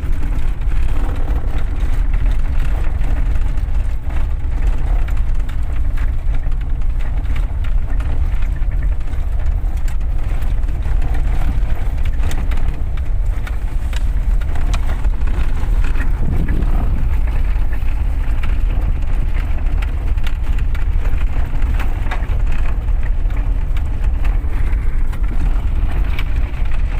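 Car engine and road noise heard from inside the cabin while driving: a loud, steady low rumble.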